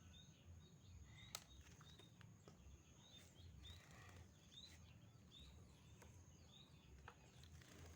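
Faint small-bird chirps: short, high, hooked notes repeated every half second or so over a low background hum, with a sharp click about a second and a half in.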